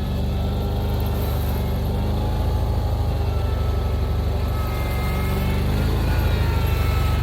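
Gasoline engine running steadily at an even speed, with a faint whine that drifts a little in pitch.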